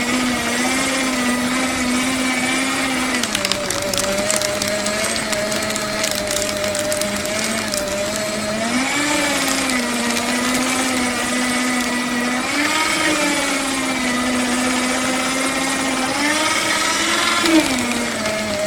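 Electric paper shredder running: a steady motor whine that rises and dips in pitch for a moment several times, with bouts of crackling as paper is cut.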